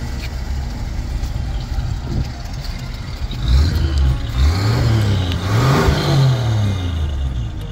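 1953 Chevrolet 210's inline-six engine idling, then revved up and down several times from about three and a half seconds in, the exhaust note rising and falling before settling back near the end.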